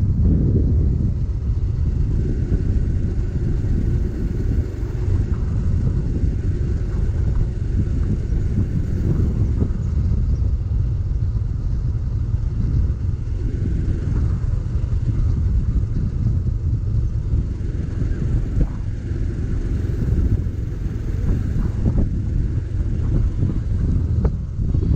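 Motorcycle on the road: a steady low rumble of engine, wind and road noise that holds at an even level throughout.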